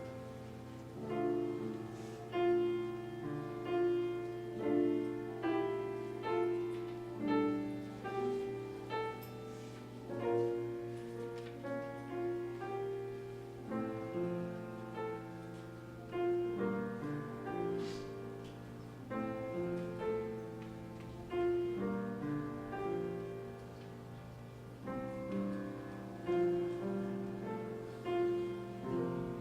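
Piano playing a slow piece, a chord or note struck about every second and left to fade, over a steady low hum.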